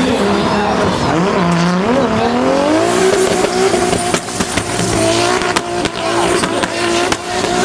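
Drift car's engine revving hard, its pitch dipping and rising about one to two seconds in, then climbing and held high, over the screech of sliding tyres; a few sharp cracks in the second half.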